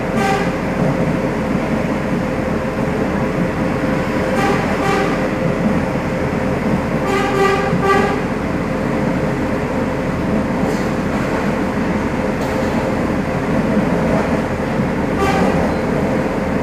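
Passenger train running along the line, a steady rumble of wheels and motion, broken by a few short tones about a quarter, halfway and near the end.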